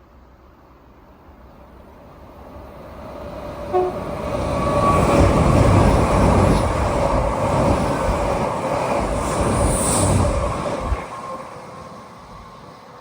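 A train approaching and passing close by, building up, loud for several seconds, then fading away. A short, sharp horn toot sounds about four seconds in as it nears.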